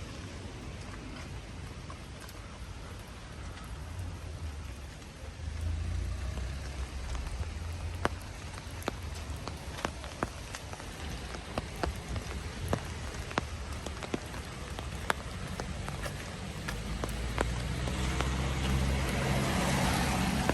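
Steady rain hissing, with many sharp single raindrop taps from about a third of the way in. A low rumble comes and goes underneath and swells near the end, as the sound grows louder.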